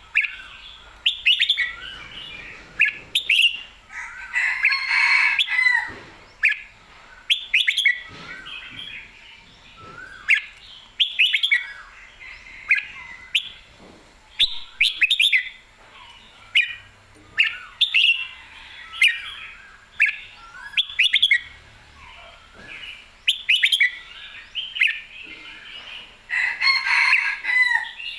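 Red-whiskered bulbul singing clear, whistled phrases every second or two, with longer, busier bursts of song about five seconds in and again near the end.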